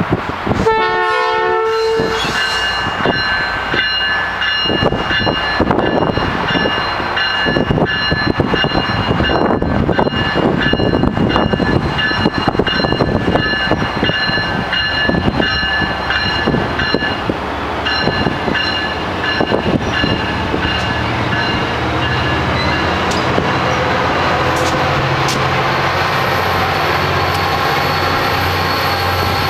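Double-headed VRE commuter train: a short horn blast about a second in, then the train rolling through with wheel clatter over the rail joints and a steady high squeal. From about two-thirds of the way in, a locomotive's diesel engine runs under load, with a high whine slowly rising in pitch.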